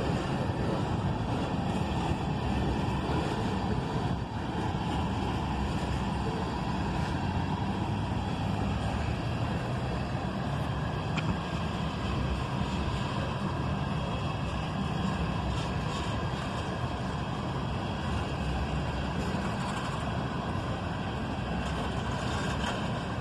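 Freight train of ethanol tank cars rolling past, a steady rumble of steel wheels on the rail.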